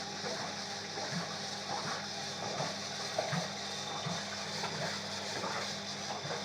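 Bosch Maxx 5 washing machine running with water: a steady mechanical hum under continuous rushing and splashing of water.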